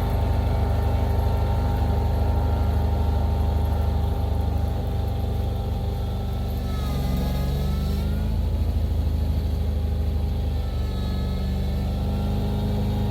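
Engine running steadily, its pitch dipping and rising back up about halfway through, and shifting again near the end.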